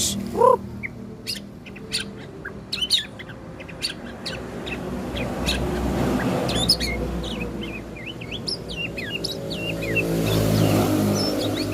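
Small songbirds chirping in a fast, varied string of short sharp calls and quick pitch slides, over a low steady motor hum.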